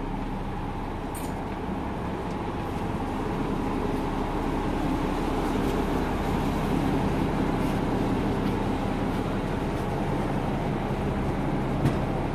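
Steady rumble and hiss inside a Japanese train carriage, growing a little louder a few seconds in, with a faint click near the end.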